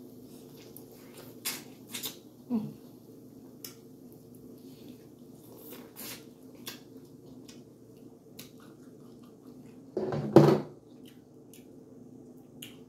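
Close-up eating sounds of corn on the cob being bitten and chewed: scattered wet mouth clicks and smacks over a steady low hum, with a louder thump about ten seconds in.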